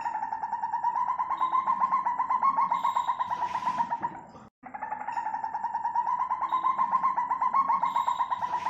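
A civet's call: a rapid pulsing trill, rising slightly in pitch and then holding steady, played as an identical loop with a brief break about four and a half seconds in.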